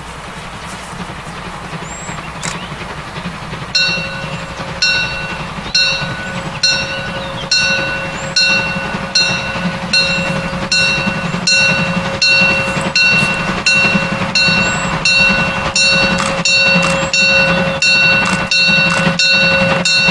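Steam locomotive getting under way, its exhaust beats starting about four seconds in and coming steadily faster. A steady ringing tone sounds alongside them and cuts off near the end, over a low rumble.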